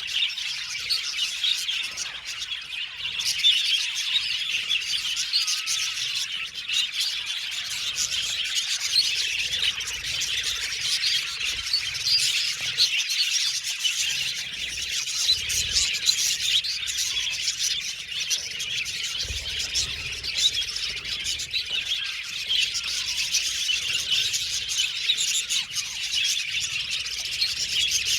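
A flock of budgerigars chirping and chattering continuously, many birds at once.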